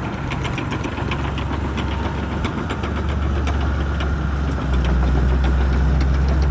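Shantui bulldozer's diesel engine running steadily under load, with rapid, irregular sharp clicks and clanks over the rumble as the machine works. The engine grows a little louder over the last couple of seconds.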